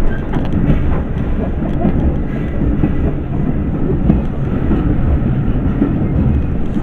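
Train running along the track: a steady loud rumble with faint clicks from the wheels.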